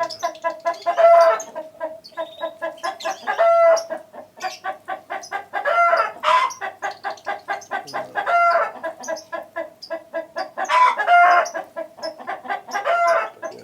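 Chickens clucking, with drawn-out crowing calls coming again about every two to three seconds.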